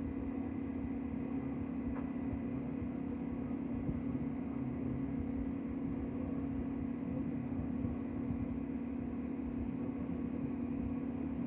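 Steady low mechanical hum over a rumble, unchanging throughout.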